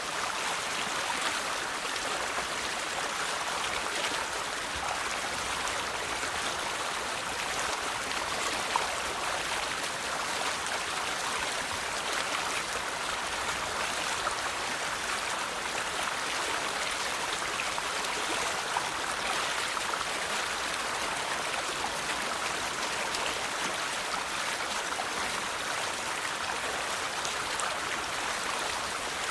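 River water flowing over stones, a steady rushing and babbling with small splashes here and there.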